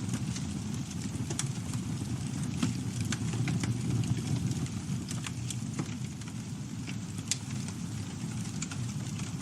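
Campfire burning: a steady low rumble of flames with irregular crackles and sharp pops of burning wood.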